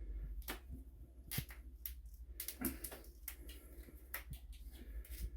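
Irregular light clicks and scrapes of an MDF plug being worked out of a bi-metal hole saw after a cut.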